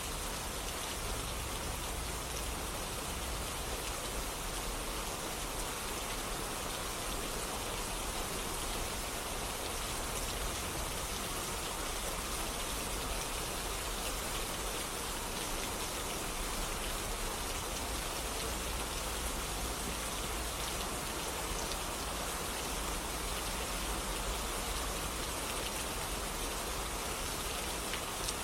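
Steady rain falling, an even wash of drops hitting surfaces.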